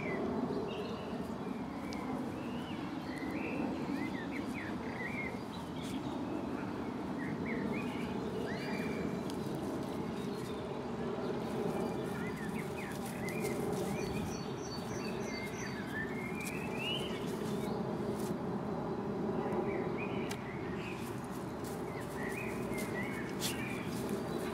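Small birds chirping in many short, quick calls over a steady low background noise, with a brief run of repeated high notes about midway.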